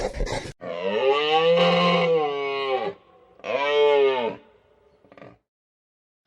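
Cow mooing twice: a long, drawn-out moo rising and falling in pitch, then a shorter one.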